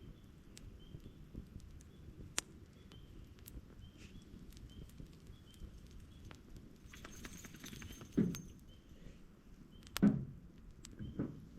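Campfire crackling, with scattered sharp pops and a denser run of crackles about two-thirds of the way through. Three dull thumps come near the end, and a faint short chirp repeats about every half second.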